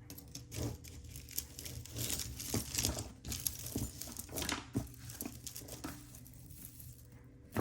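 Hands sorting through loose costume jewelry: crinkling and rustling with scattered small clicks and clinks of beads and metal pieces, busiest in the middle.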